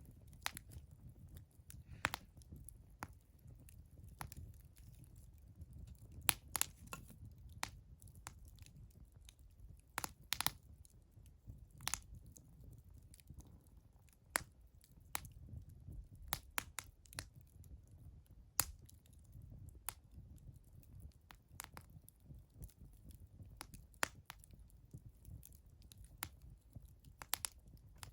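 Wood campfire crackling: irregular sharp pops and snaps, sometimes several in quick succession, over a low steady rumble.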